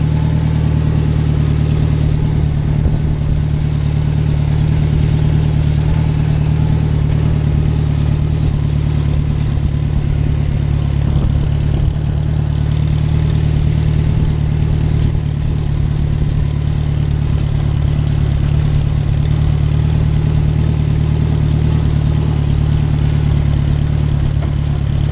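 Small farm tractor's engine running steadily and close up, with an even, unchanging drone throughout.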